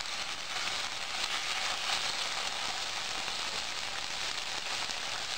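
Ginger-garlic paste sizzling in hot oil in a steel pan: a steady crackling hiss of frying.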